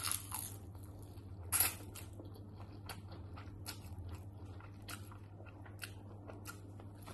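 Close-up eating of instant noodles: quiet chewing and small wet mouth clicks, with one louder short sound about a second and a half in, over a low steady hum.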